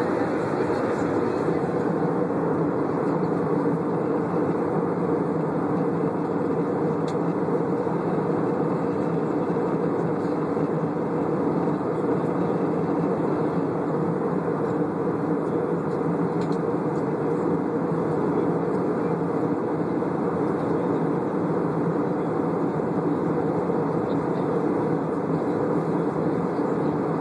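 Steady cabin noise of an aeroplane in flight, heard from inside the cabin: an unbroken low rush of engines and airflow with no change in level.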